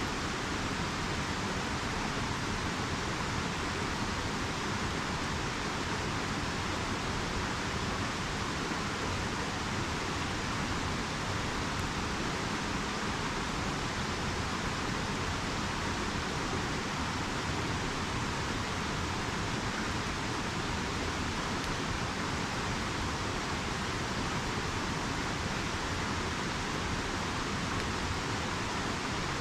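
Steady rushing of a river's flowing water, an even hiss that does not change.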